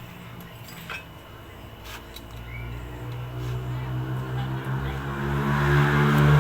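A motorcycle engine running steadily, growing louder from about two seconds in.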